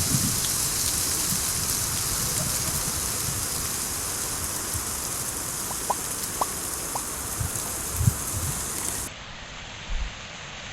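Wind rustling through forest leaves as a steady high hiss, with low gusts buffeting the microphone and a few faint short chirps in the middle. About nine seconds in, the hiss drops abruptly to a quieter background.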